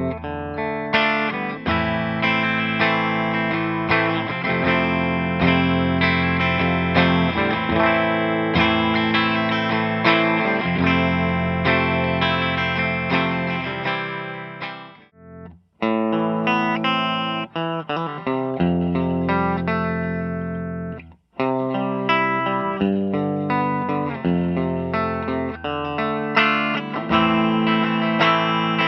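Electric guitar played clean through a valve (tube) guitar amp, ringing chords and picked notes. The playing breaks off briefly twice, about 15 and 21 seconds in.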